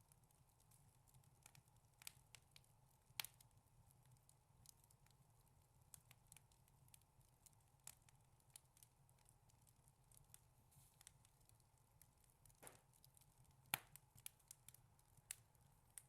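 Wood fire crackling in a fireplace, faint, with scattered sharp pops and two louder pops about three seconds in and near the end.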